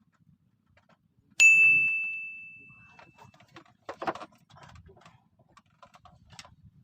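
A small metal bell is struck once, sharply, about one and a half seconds in, and rings out clear and high for about two seconds. A short clatter of knocks follows near four seconds.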